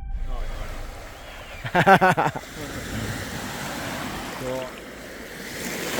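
Sea waves washing on a shore, with a person's short loud call about two seconds in and a brief softer voice a little after the middle.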